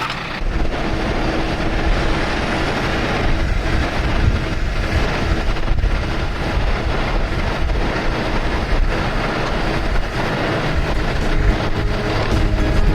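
Heavy vehicle engine running with a low rumble, under load while pulling a truck out of deep mud. Music comes in near the end.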